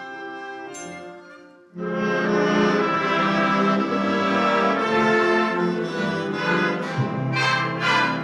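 Concert wind band playing: a softer passage fades away, then about two seconds in the full band comes in loud with sustained brass-led chords. Near the end the chords break into short, accented hits.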